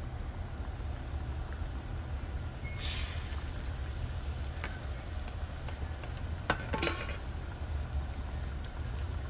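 Rice-flour batter rings frying gently in ghee on a low flame, a soft steady sizzle over a low hum, with short clinks about three seconds in and again near seven seconds.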